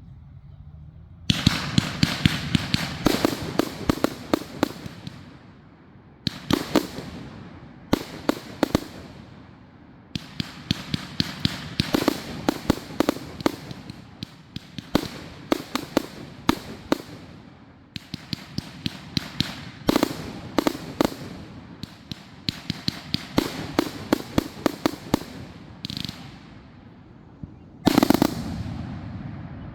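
A 49-shot 500 g firework cake firing in volleys of sharp, rapid bangs. It starts about a second in and pauses briefly several times between volleys. A last loud volley comes near the end.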